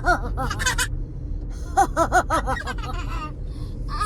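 Young child laughing in deliberate 'ha-ha-ha' runs, as in a laughing contest. One run comes at the start and a second about two seconds in, each a quick string of short, high, evenly spaced laughs.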